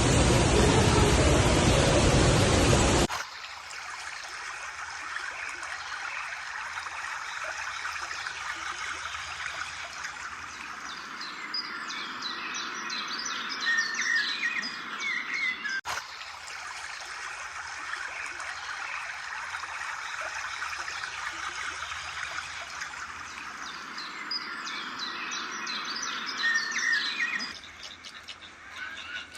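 A loud, even rushing noise like falling water cuts off sharply about three seconds in. It gives way to a steady hiss over which several birds chirp and twitter in two stretches, the second a repeat of the first.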